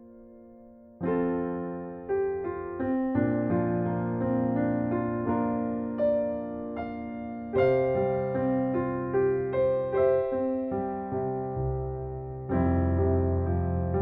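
Background piano music, a gentle melody of struck notes over sustained chords; a held chord fades out over the first second before a new phrase begins.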